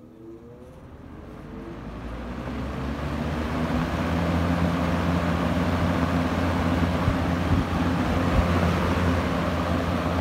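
1977 Lasko model 4746 20-inch box fan, with its plastic-shelled motor, spinning up on high speed: a rising whir that builds over about four seconds, then runs steadily as a low motor hum with rushing air from the blades.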